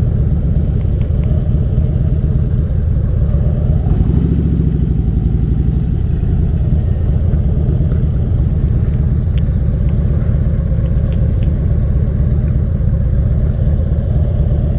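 Harley-Davidson Dyna V-twin motorcycle engine running at idle and low speed with an even, low pulsing beat, rising briefly about four seconds in, while the bike is manoeuvred into a parking spot.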